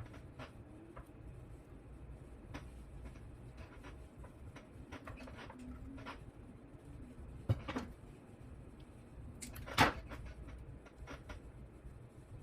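Scattered light clicks and taps of small parts and cables being handled on a workbench, with two louder knocks about 7.5 and 10 seconds in, over a low steady hum.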